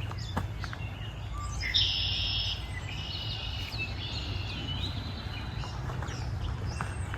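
Songbirds singing: a loud buzzy phrase about two seconds in, then a run of slurred, swooping whistled notes, over a steady low rumble.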